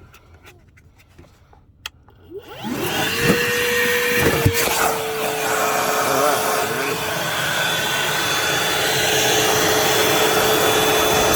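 Milwaukee Fuel brushless wet/dry vacuum switched on about two and a half seconds in after a couple of clicks, its motor spinning up to a steady whine over a loud rush of air as it picks up a spill of liquid laundry detergent.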